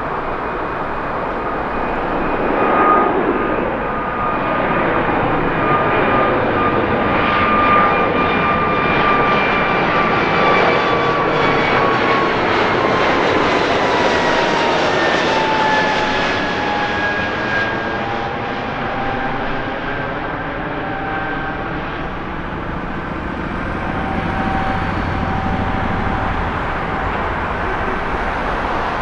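Airbus A220-300 jet engines at takeoff power as the airliner climbs out, a loud steady jet noise with whining tones. The whine falls in pitch about halfway through as the aircraft passes and moves away.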